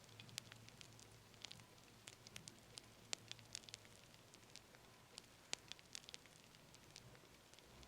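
Fire crackling softly: irregular sharp pops and snaps, a few louder than the rest, over a faint low hiss.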